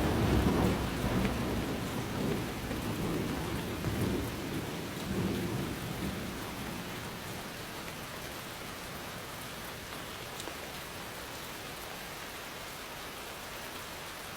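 Steady rain falling, with a roll of thunder rumbling at the start that fades out over the first several seconds, leaving only the rain.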